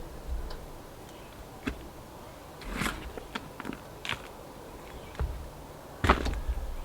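Intermittent clicks, scrapes and knocks from handling plant pots and potting soil during repotting, about six in all, the loudest one a little before the end.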